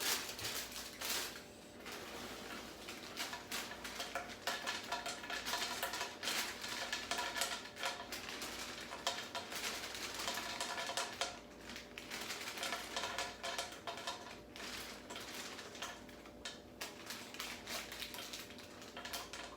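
Reese's Puffs cereal rattling and clicking as it is poured out and dropped into a container, a long run of quick irregular clicks.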